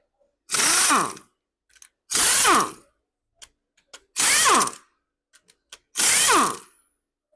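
A power tool run in four short bursts, its pitch falling during each one, with small clicks and taps in between.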